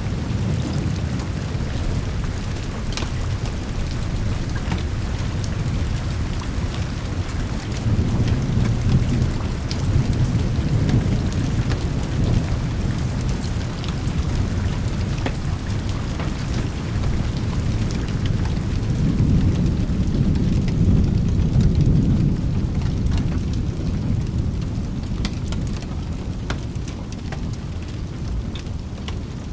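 Steady rain with thunder rumbling low, swelling once about a third of the way in and again about two thirds through, with scattered sharp ticks over the hiss.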